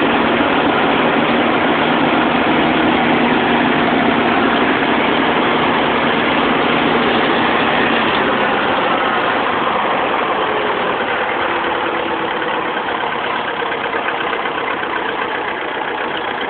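1974 International 2400A tractor's gasoline four-cylinder engine running at idle. Its low tone changes and it grows a little quieter about halfway through.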